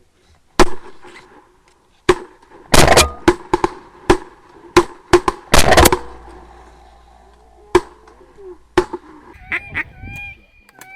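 Several shotguns firing an irregular volley at incoming ducks, more than a dozen shots over about nine seconds, thickest in the middle. Near the end comes a run of short quacking calls.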